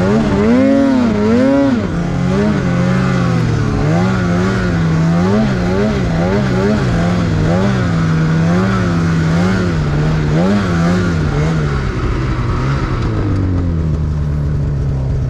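Snowmobile engine revved up and down over and over as it rides through powder snow, with the throttle blipped in quick waves, then settling to a steady lower note about twelve seconds in.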